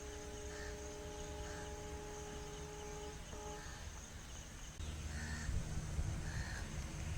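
Outdoor ambience: a steady horn-like tone held for about three seconds, then sounded again briefly, with a bird calling in short notes roughly once a second over a low rumble.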